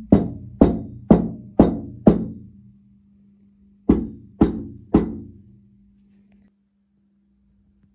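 Eight hollow knocks in two runs, five about half a second apart and then, after a short pause, three more. Each strike rings briefly.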